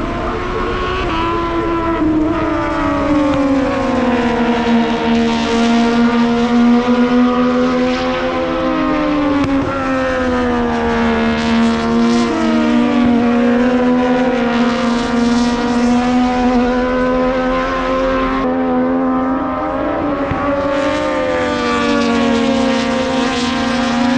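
Racing motorcycle engine running at high revs, its pitch holding for long stretches, then dipping and rising again as the bike slows and accelerates. Near the end the sound changes suddenly.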